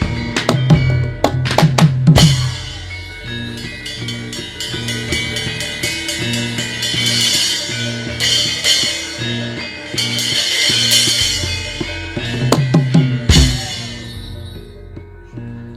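Javanese gamelan music: hand-drum (kendang) strokes over sustained ringing tones from gongs and metallophones. Quick flurries of drum strokes come near the start and again near the end.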